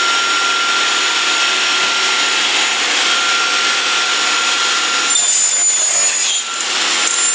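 Workshop power machine for aluminium profiles running with a steady whine. About five seconds in the sound changes to a higher-pitched ring as the tool works the aluminium.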